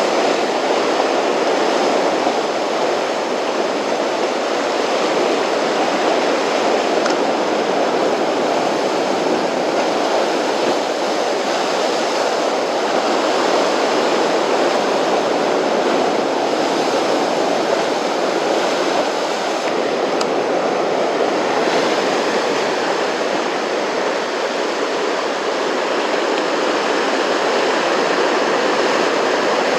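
Steady rushing noise of rough, typhoon-stirred sea surf, with no breaks or single impacts.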